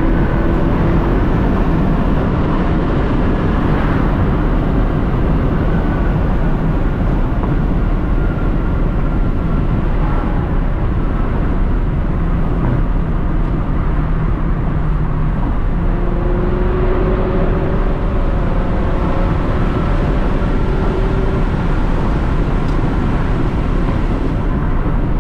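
Straight-piped Lexus SC430's V8 exhaust droning steadily while cruising, under a constant wash of road and wind noise, with faint engine tones that hold for a few seconds and shift slightly in pitch.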